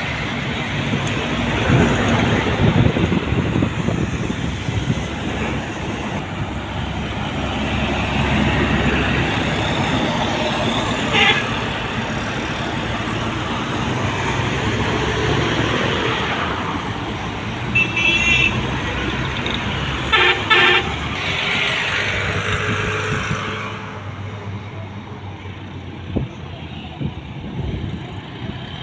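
Buses and trucks passing at speed on a highway, their engine and tyre noise swelling and fading, with short horn blasts about 11 seconds in and again around 18 and 20 seconds. The traffic noise drops off after about 23 seconds.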